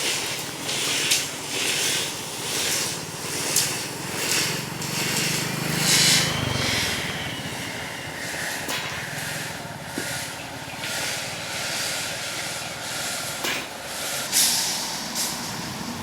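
Road construction machinery running, with repeated hissing surges over a steady rumble and a low hum swelling for a couple of seconds about four seconds in.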